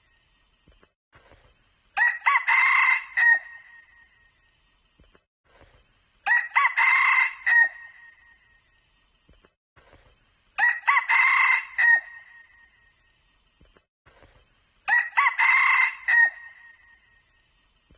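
Red junglefowl crowing four times, about every four seconds, each crow a short burst of a call ending in a clipped high note, with near quiet between crows.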